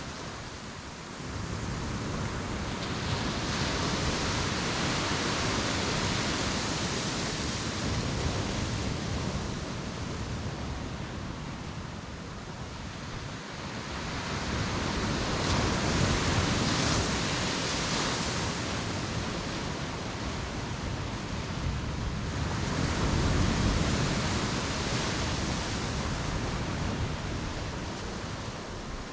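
Ocean waves breaking and washing up the beach, the rush swelling and easing three times about every eight seconds.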